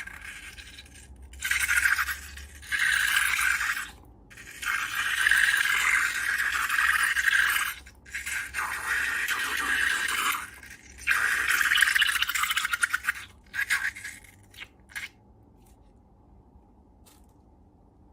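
Scraping noises in several bursts of one to three seconds each, stopping about fifteen seconds in.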